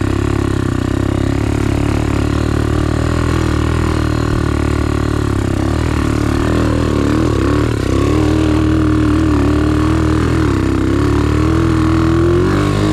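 125cc pit bike's single-cylinder engine running at low revs, rising and wavering in pitch from about halfway through as the throttle is worked.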